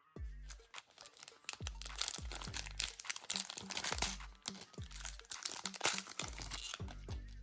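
Packaging crinkling and crackling as it is handled and opened, heard over background music with a repeating bass beat.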